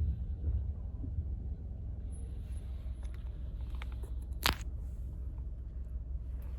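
Low steady rumble with a few faint clicks, and one sharp click about four and a half seconds in.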